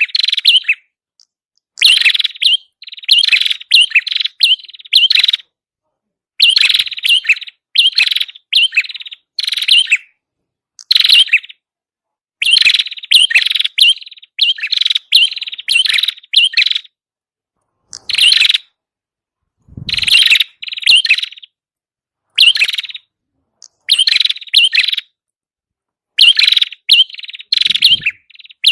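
Prenjak kepala merah (red-headed prenjak) song, used as a lure recording: rapid, sharp, high chirps in repeated bursts of about a second each, separated by short silent gaps. A low thud comes about twenty seconds in.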